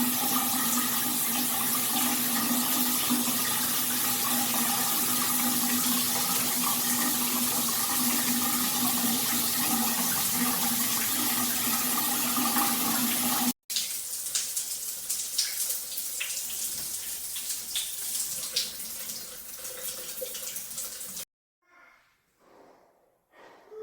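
Water spraying from a G-Promise rain shower head: a steady hiss with a faint tone under it, which breaks off suddenly about 13 seconds in. A thinner spray with light patter follows and stops about 21 seconds in.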